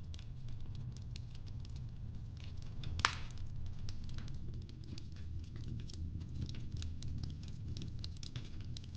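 Wood fire crackling in a fireplace: a steady low rumble with many small pops and clicks, and one louder crack about three seconds in.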